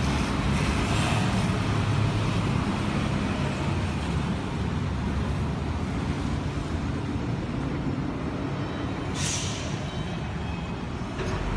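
Steady low rumble of motor vehicles running, easing off slightly, with a short hiss about nine seconds in.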